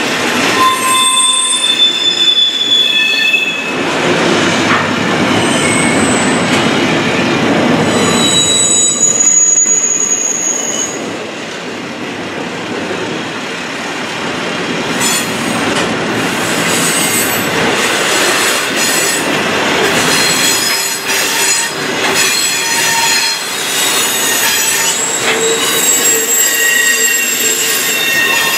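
BNSF double-stack intermodal train rolling past, its wheels squealing with several high-pitched tones that come and go over the steady rumble and clatter of the well cars. The sound eases briefly about a third of the way through, then builds again.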